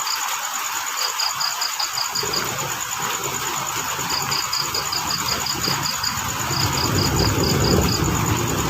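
Crickets chirping in short pulsed trills that repeat every second or two, with a steady high insect trill above them, over an even hiss of rain. A low rumble comes in about two seconds in and swells near the end.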